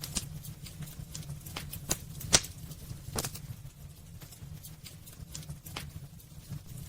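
Wood fire burning in a fireplace: irregular crackles and pops from the burning logs, the loudest a little over two seconds in, over a steady low rumble.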